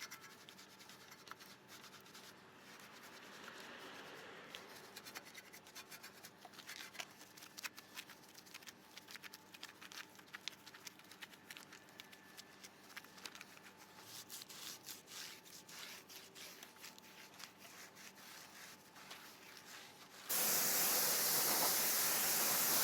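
Faint scratching and rubbing with scattered small clicks. About twenty seconds in, a pressure washer starts spraying water at the wheel, a loud steady hiss.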